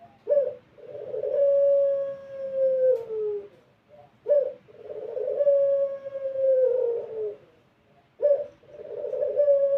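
A puter pelung, a domestic ringneck dove bred for a long, drawn-out coo, cooing three times. Each call is a short sharp note followed by a long held coo that drops in pitch at its end. The last coo is still going at the close.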